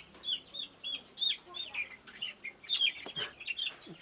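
Poultry chicks peeping: many short, high cheeps, several a second and overlapping.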